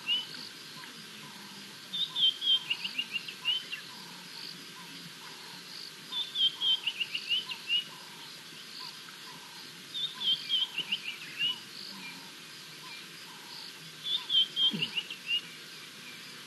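Wild birds singing: a phrase of quick, falling notes repeated about every four seconds, over a steady series of lower notes about twice a second.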